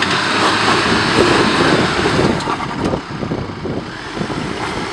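Chevrolet Trailblazer's engine running under load as it is worked over a rough obstacle, heard as a dense rushing noise that eases off about three seconds in.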